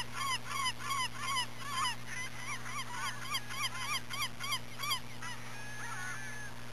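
Geese honking, a quick run of calls about three a second that stops about five seconds in, over a steady low hum.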